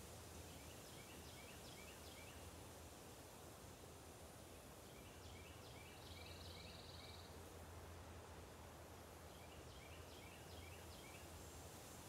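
Near silence of woodland, with a faint bird singing three times, each time a quick run of short high notes, about every four to five seconds.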